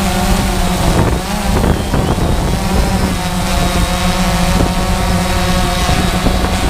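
DJI Phantom quadcopter's propellers and motors buzzing steadily in flight, the pitch wobbling slightly about a second in, with wind buffeting the microphone.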